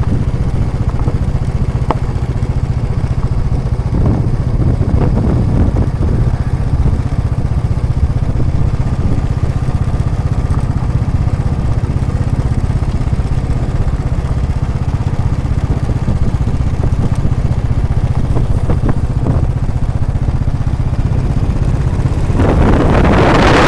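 Royal Enfield Classic 350's single-cylinder exhaust running steadily while the motorcycle is ridden. Wind noise on the microphone rises near the end.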